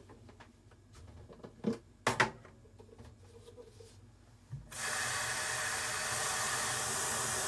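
A few sharp kitchen knocks and clicks, then about two-thirds of the way in a kitchen tap is turned on and water runs steadily into the sink.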